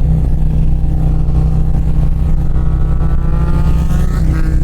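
2024 Harley-Davidson CVO ST's Milwaukee-Eight 121 V-twin running under way, its pitch rising steadily as the bike accelerates from about a second and a half in. The exhaust note sounds not too loud, just right.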